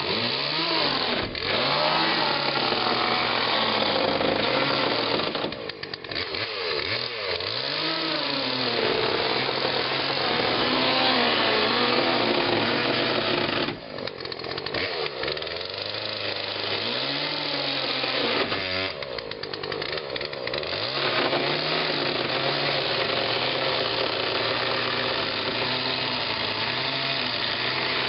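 Power saw cutting into a fiberglass sailboat hull, its motor pitch rising and falling as the blade loads and frees. It eases off briefly three times, about a third of the way in, near the middle, and about two-thirds through.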